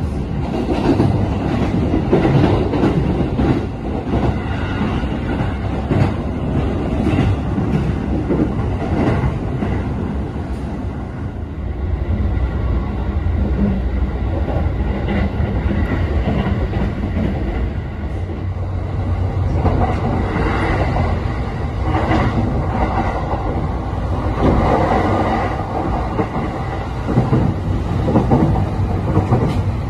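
Running noise inside a JR East E531-series electric train at speed: a steady rumble of wheels on rail, with clacking as the wheels pass over rail joints.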